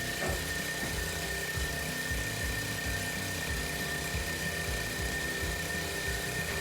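Small single-cylinder gasoline engine, a Honda clone, running steadily on a hydraulic log splitter, with a steady high whine over the engine's pulsing.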